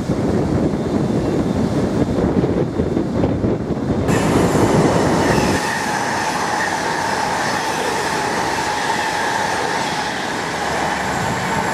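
Virgin Pendolino electric train running through the station: a heavy rumble as it approaches, then, about four seconds in, an abrupt change to a rushing hiss with a steady whine as the coaches pass close.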